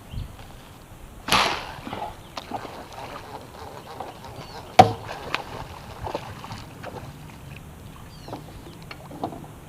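Bowfishing bow shot from a boat: a single sharp snap near the middle, after a short rushing noise about a second in, with scattered light knocks against the boat.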